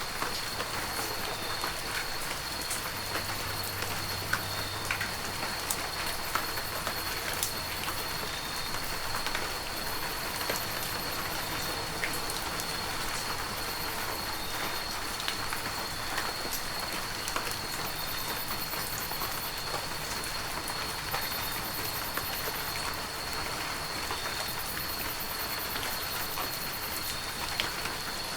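Heavy rain falling steadily, with many separate drops ticking sharply through the even rush. A steady thin high tone runs beneath it.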